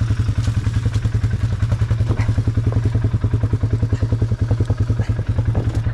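ATV engine idling steadily, with an even, rapid putter of exhaust pulses.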